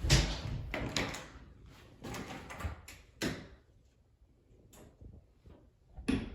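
A door being handled: a loud knock at the start, a few more knocks and rattles over the next three seconds, then a sharp click near the end.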